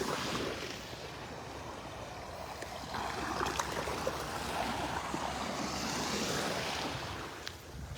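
Waves washing onto a sandy beach, swelling from about three seconds in and easing near the end, with some wind on the microphone.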